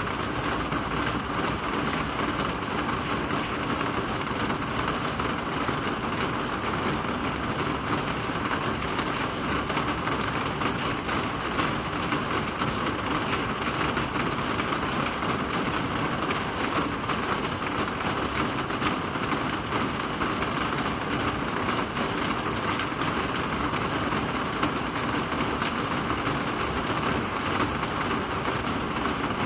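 Steady rain falling: an even, unbroken hiss of many drops that keeps the same strength throughout.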